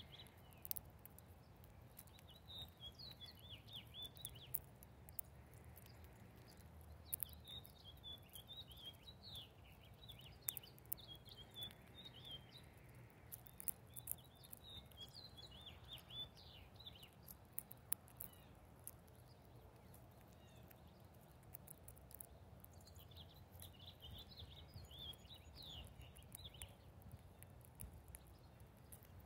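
Small birds chirping faintly in several short bursts of quick, high calls, with scattered sharp ticks and a steady low rumble underneath.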